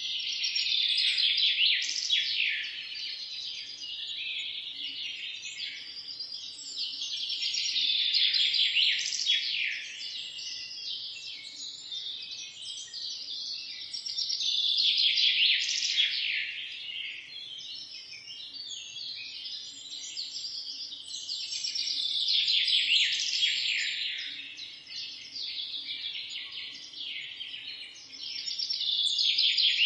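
A dense chorus of many small birds chirping and twittering at once, swelling louder roughly every seven seconds and easing back in between.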